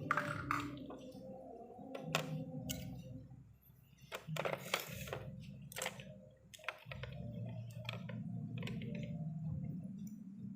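Scattered clicks and taps of tools and parts being handled during TV repair work, over a steady low hum that drops out briefly twice. A short hissing burst comes about four and a half seconds in.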